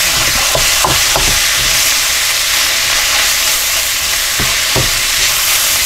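Chopped chip steak, onions and mushrooms sizzling in a hot wok with a steady hiss, stirred with a wooden spurtle that scrapes across the pan in a few short strokes.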